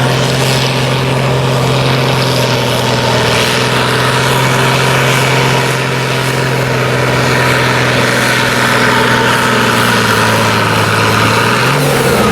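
Farm stock diesel tractor engine running hard at a steady high speed while pulling the weight sled, its pitch sagging slightly about ten seconds in and then rising again near the end.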